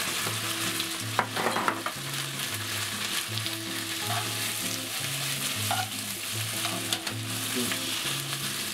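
Sliced onion and bacon sizzling in a frying pan while being stirred with a spatula, with a few short knocks of the spatula against the pan about a second in.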